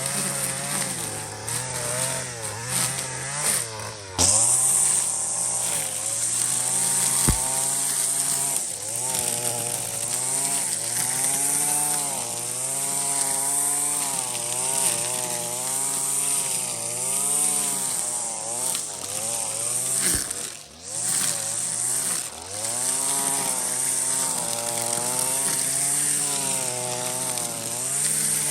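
Small engine of a handheld power tool running, its pitch rising and falling over and over as the throttle is worked. It gets suddenly louder about four seconds in and drops away briefly around twenty seconds in.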